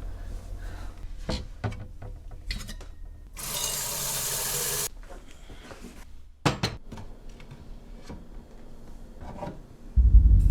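Kitchen sounds of coffee being made: a few knocks and clinks of cups and dishes, and a steady pour of liquid lasting about a second and a half a few seconds in. A loud low rumble starts near the end.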